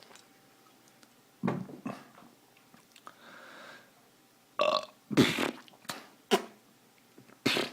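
A man belching several times, short loud burps coming one after another from about halfway in, brought up by heartburn.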